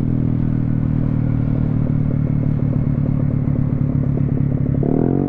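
Yamaha Zuma 125 scooter's single-cylinder four-stroke engine running through an aftermarket exhaust on the road. For a few seconds a rapid crackle of exhaust pops rides over the engine note as the throttle is eased off, then the revs rise again near the end. The rider puts these deceleration pops down to an air-fuel ratio that still needs tuning.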